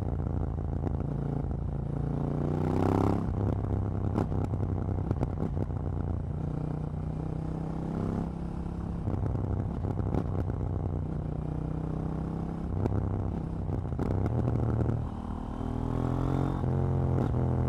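KTM 790 Duke's parallel-twin engine and exhaust under way. The revs rise sharply about two seconds in and again near the end, and many short sharp clicks run through the steady engine note.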